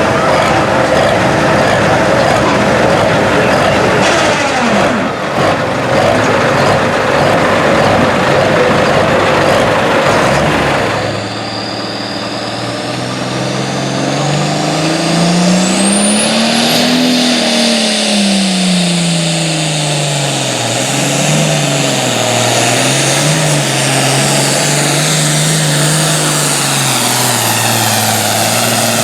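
Turbocharged diesel pulling tractor run at full throttle, a loud dense engine sound. About eleven seconds in it changes abruptly to an engine climbing in pitch, then easing down and wavering, with a high turbo whistle rising sharply over it.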